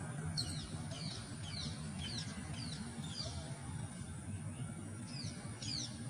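A bird calling in a run of short, high chirps, each falling in pitch, about two to three a second. The chirps pause about midway and start again near the end, over a steady low rumble.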